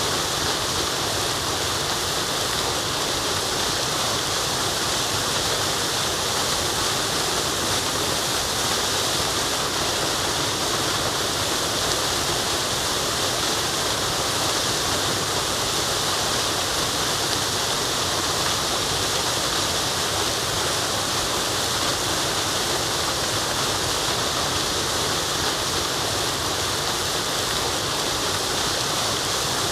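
Waterfall, a steady rushing of falling water with no change in level.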